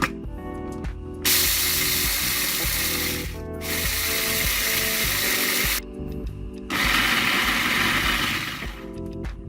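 Two-cup coffee machine running in two long, loud, noisy stretches, the first about four and a half seconds with a brief dip partway, the second about two seconds, over background music.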